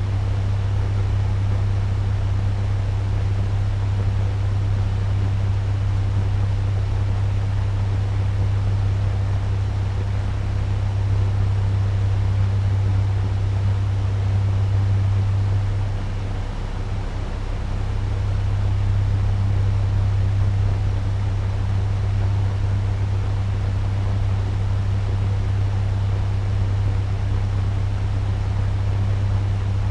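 Turbo fan running at medium speed: a steady rushing of air over a strong low motor hum. The hum and level dip briefly about halfway through, then return.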